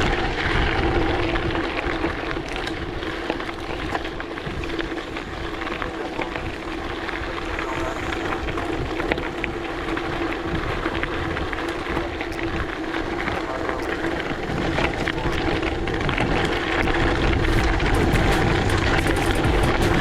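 Gravel bike coasting downhill on a loose, rough road: wind buffeting the action-camera microphone over the rumble of the tyres on gravel, with a steady hum underneath.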